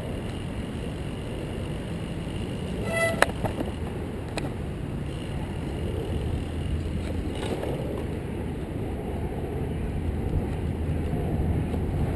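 Steady wind and rolling noise from a recumbent trike being ridden, a low rumble throughout. About three seconds in comes a brief high tone, followed by two sharp clicks about a second apart.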